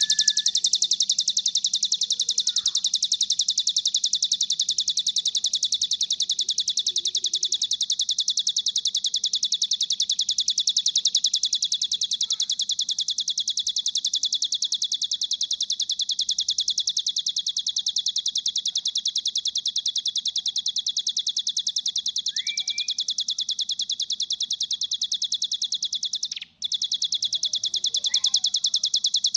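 Bar-winged prinia (ciblek) singing a continuous, very rapid high-pitched trill that breaks off only briefly about 26 seconds in. A few short chirps and rising notes are mixed in beneath it.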